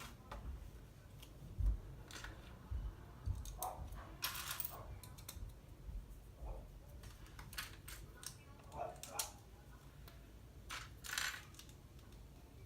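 Plastic LEGO bricks clicking and rattling, with pieces being handled and pressed together and occasional light knocks on a table.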